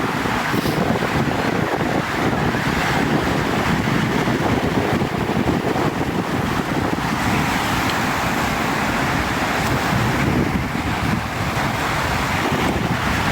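Steady wind rumble on the microphone, mixed with the wash of ocean surf.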